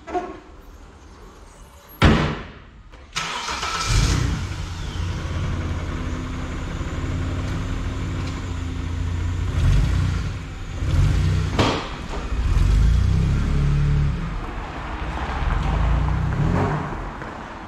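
A car bonnet slammed shut, then about a second later a 1999 Vauxhall Omega MV6's 3.0-litre V6 starting with a brief flare of revs. It settles into running, with a few rises in revs as the car pulls away at low speed.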